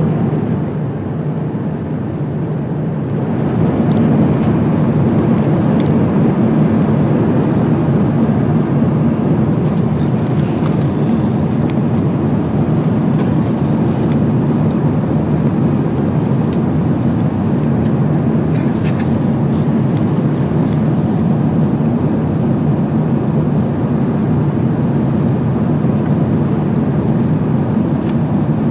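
Steady low rush of cabin noise inside an Airbus A350-900 airliner at cruise altitude, from engine and airflow noise, swelling about three seconds in, with a few faint scattered clicks.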